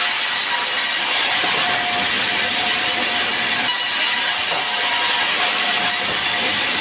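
Sawmill saw running: a steady high hiss with faint whining tones.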